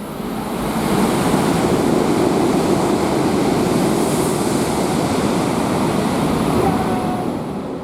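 Tohoku Shinkansen train running through the station at high speed: a loud rushing roar of wind and wheels that swells in quickly, holds for about six seconds and fades near the end.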